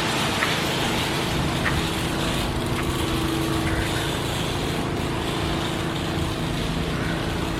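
PDQ LaserWash 4000 touchless car wash machinery running: a steady motor hum over an even hiss of spray and pumps.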